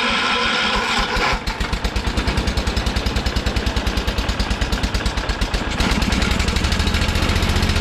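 John Deere 212 garden tractor's single-cylinder Kohler engine being cranked by the starter, then catching about a second and a half in and running with an even, rapid beat. About six seconds in, the beat grows louder and deeper.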